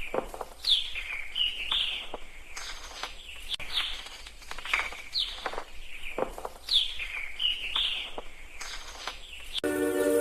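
Parrots calling: repeated short, downward-sliding chirps. Music comes in near the end.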